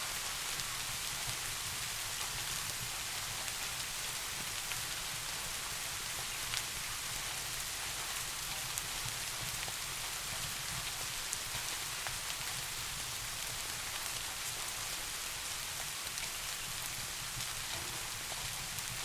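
Steady rain falling: an even hiss with a steady low rumble beneath and scattered sharp ticks.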